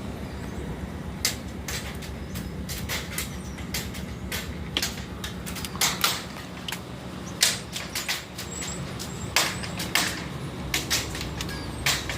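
Small hard tree fruits dropping and striking in sharp, irregular clicks and knocks, some louder than others, over a car engine idling steadily. He takes the fruits for birds pelting him.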